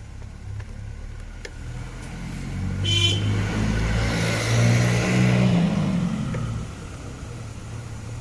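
A car engine running, swelling louder and rising in pitch for a few seconds in the middle, with a brief high tone about three seconds in.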